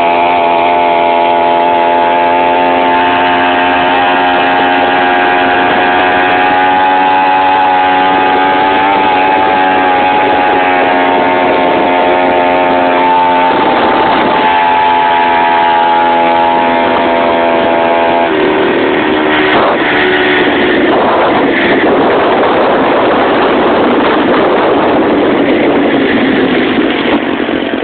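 Homelite 26cc two-stroke string-trimmer engine driving a bicycle, running steadily at high speed. It dips briefly about halfway through, drops in pitch a few seconds later, and then gives way to a rougher, noisier rush for the last part.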